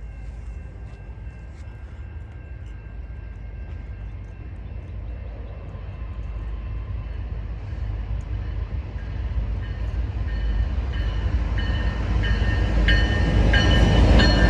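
Approaching freight train: the deep rumble of its diesel locomotives grows steadily louder as it closes on the grade crossing, with high ringing tones over it that get stronger near the end.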